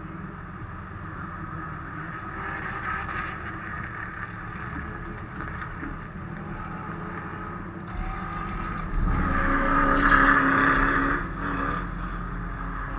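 Car engine running steadily, getting louder for a couple of seconds about nine seconds in.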